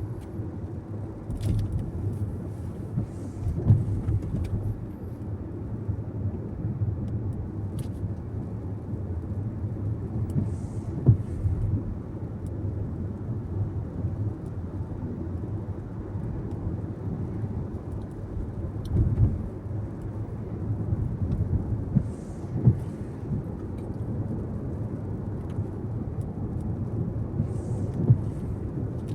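Car interior road noise while driving: a steady low rumble of tyres and engine, with a few sharp thumps scattered through.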